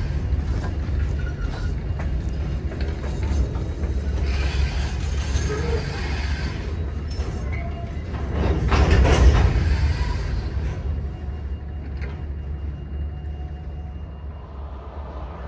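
Freight train of open-top hopper cars rolling slowly past: a steady low rumble of wheels on rail, with a few clanks and brief squeaks. It grows loudest a little past the middle, then fades away near the end.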